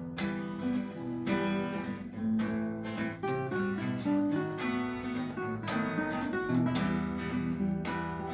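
Instrumental introduction of a song: acoustic guitar strummed in a steady rhythm over sustained chords and a low bass line.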